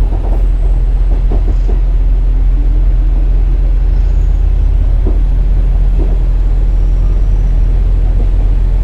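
KiHa 47 diesel railcar running, its diesel engine droning steadily with a low rumble from the wheels on the rails.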